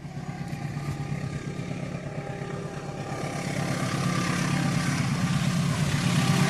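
An approaching train: a steady low engine hum with wheel and rail noise above it, growing steadily louder as it nears.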